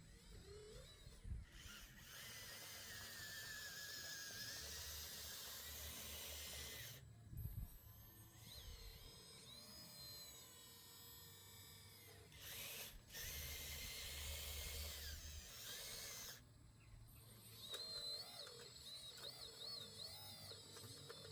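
Small electric motors whining on radio-controlled model machines, the hydraulic excavator's pump among them, in short segments that start and stop abruptly.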